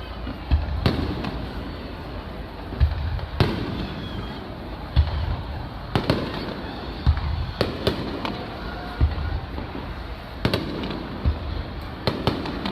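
Aerial firework shells bursting in an irregular barrage: about a dozen deep, sharp booms, some in quick pairs, each followed by a rumbling echo.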